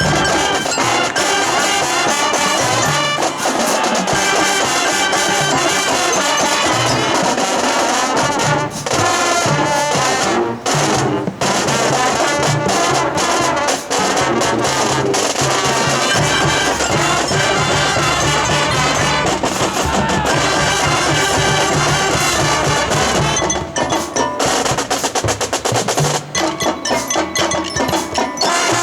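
Marching band playing a loud, up-tempo number: brass section over drums and auxiliary percussion, breaking into short, choppy staccato hits near the end.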